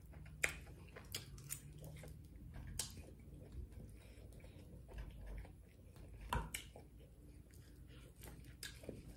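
Faint close-miked chewing while eating fried pork chops and greens, with scattered soft clicks and smacks.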